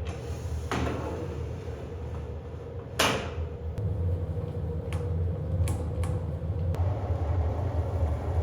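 A woodshop machine running steadily with a low hum, while wooden parts are knocked and set down several times, the loudest knock about three seconds in.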